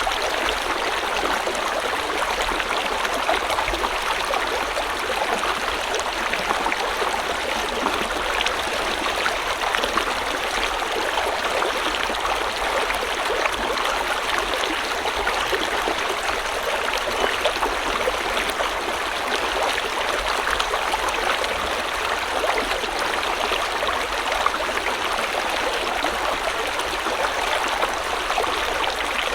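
River water running over rocks, a steady gurgling flow with small splashes flickering through it.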